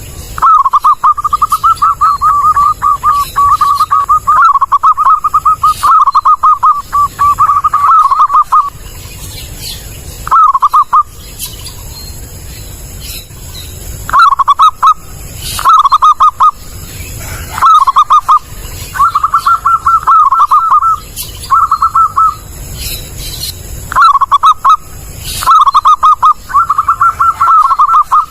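Zebra dove (perkutut) cooing: loud, clear phrases of rapid trilled notes, some short and some running several seconds, repeated with brief pauses between them.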